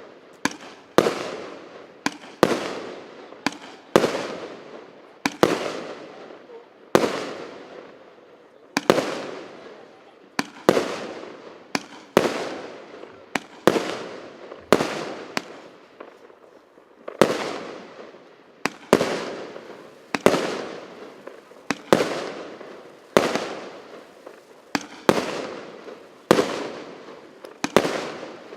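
RS777 consumer fireworks cake (128 one-inch shots) firing in sequence: a sharp bang about every one and a half seconds, each trailing off in an echoing decay.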